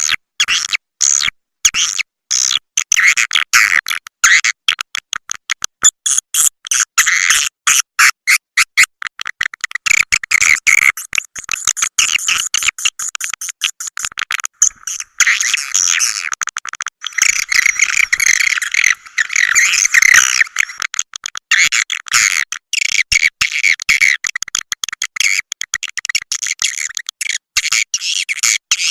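Swiftlet calls: dense, rapid high-pitched twittering chirps and clicks with short gaps, nothing low in pitch. This is a swiftlet 'calling sound' recording, the kind played to lure swiftlets into a nest house.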